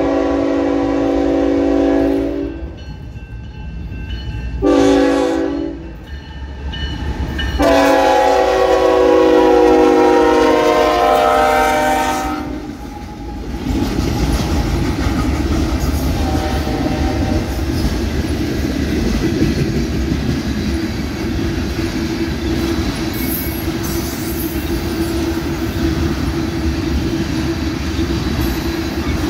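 Freight train's diesel locomotive air horn sounding for a grade crossing: a long blast, a short blast, then a final long blast of about five seconds. After that the train passes close by, its freight cars rumbling with a steady clickety-clack of wheels over the rail joints.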